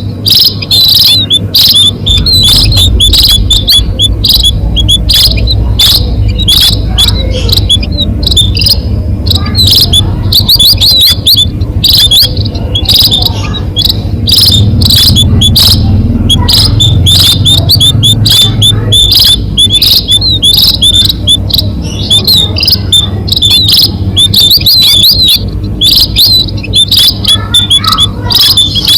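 A flock of munias (bondol) chirping as a bird-trapping lure call: many short, high calls repeat rapidly and without a break, over a steady low hum.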